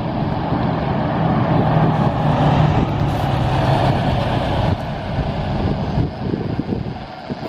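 A heavy vehicle's engine running with a steady low hum, growing louder in the middle as it passes close by, then easing off.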